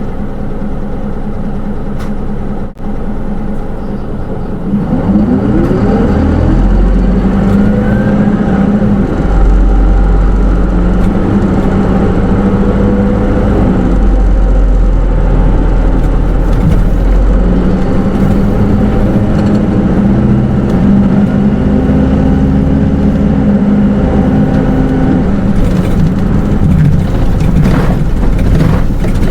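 Cabin sound of a Hino Rainbow II midi bus with automatic transmission, heard from inside. It idles quietly, then pulls away about five seconds in, the engine note rising. It runs on with the engine pitch stepping through gear changes.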